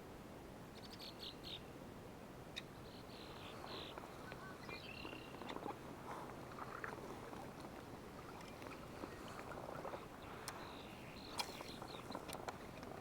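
Faint outdoor ambience: short bird calls and chirps now and then over a steady low hiss, with a few sharp clicks near the end.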